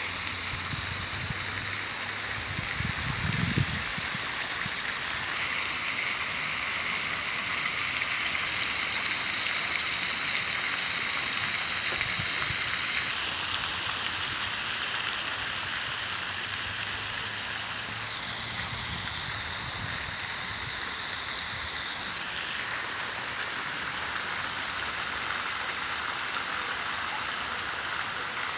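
Steady rush of flowing water, a constant hiss whose tone shifts abruptly a few times. Brief low rumbles near the start and a little over halfway through.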